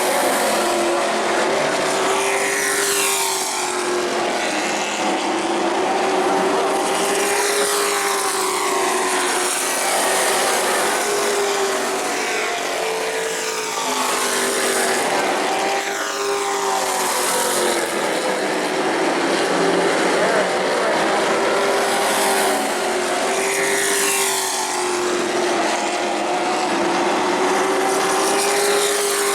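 Race trucks' engines running at speed around an asphalt short-track oval, a continuous engine drone that swells and fades, with trucks sweeping past every few seconds in falling pitch.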